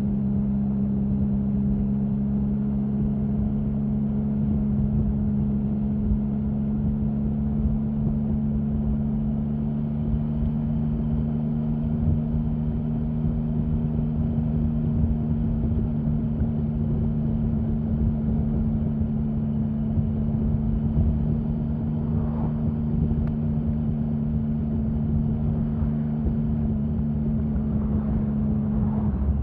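Triumph Sprint 1050's three-cylinder engine running at a steady, unchanging engine speed.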